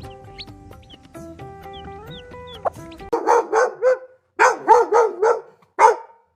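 Simple background music, then about three seconds in a dog starts barking: two quick runs of several barks and a single bark near the end.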